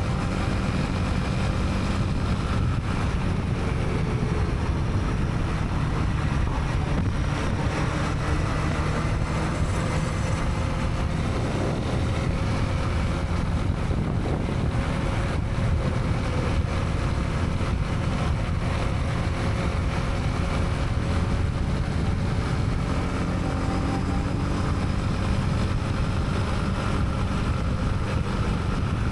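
Honda CB300R's single-cylinder engine running steadily under way, its pitch drifting slightly up and down, with wind noise on the helmet camera and the surrounding traffic.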